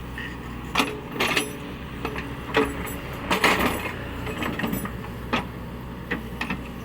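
Cat 307E2 mini excavator's diesel engine running steadily, with a series of sharp clanks and knocks from the working machine, the loudest about three and a half seconds in.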